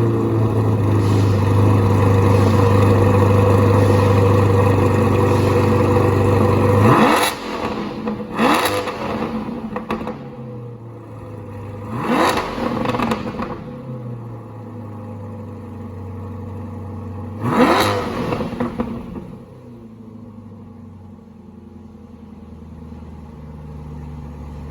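C8 Corvette Stingray's 6.2-litre V8 through a Borla aftermarket exhaust, running at a loud, fast cold-start idle for about seven seconds. It then drops and is blipped with several quick revs a few seconds apart, and settles to a quieter idle.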